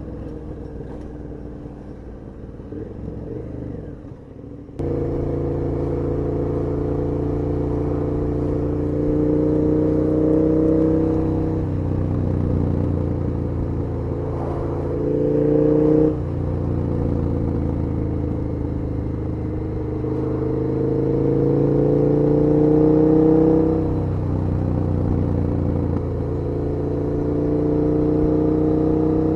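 KTM 1290 Super Duke R's V-twin engine under way, quieter for the first few seconds and then suddenly louder about five seconds in as the throttle opens. It pulls through the gears, its pitch climbing under acceleration and dropping back at each shift, most sharply in the middle and about three quarters of the way through.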